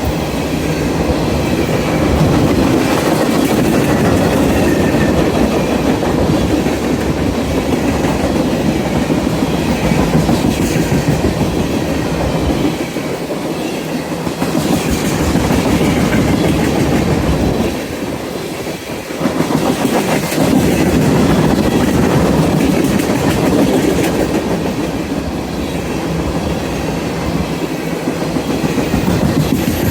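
Freight train rolling past at close range, its car wheels clattering over the rails in a steady clickety-clack, with brief dips in the noise twice.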